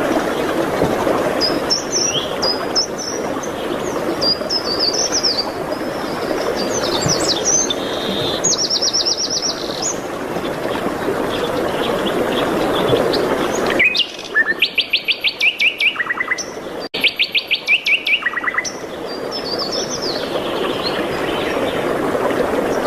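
Songbirds chirping and singing over a steady rushing background noise. About two-thirds of the way in, the background drops away for a few seconds while a bird sings two loud, rapid trills of about ten quick notes a second.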